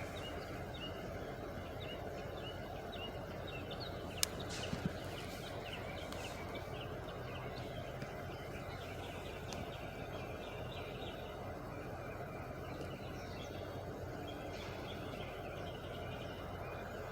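Many birds chirping in short, repeated calls over a steady low rumble, with a sharp click about four seconds in.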